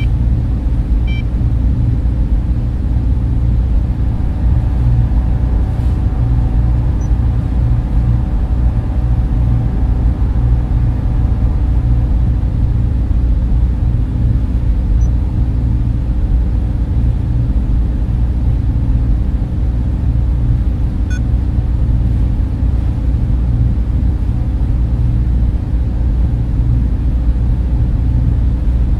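Server room fans running in a steady, even drone with a deep rumble and a faint hum of steady tones above it.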